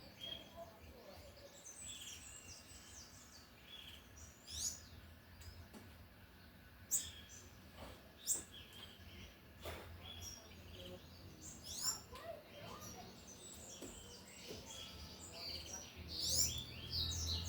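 Double-collared seedeater (coleiro) singing its 'tui tui' style song: quick, high chirping phrases with a few sharp whistled sweeps, livelier near the end.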